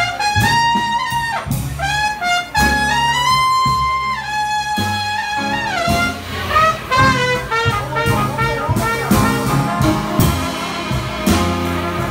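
Live traditional jazz band with a cornet playing the lead melody over bass and rhythm: a short held note, then a falling slide about five seconds in, after which the ensemble plays a busier run of short notes.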